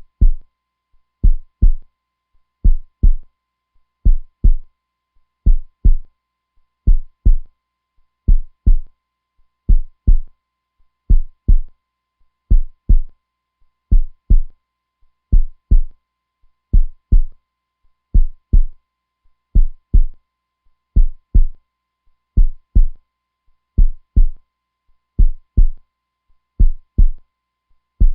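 Heartbeat: deep double thumps (lub-dub), one pair about every one and a half seconds, evenly spaced.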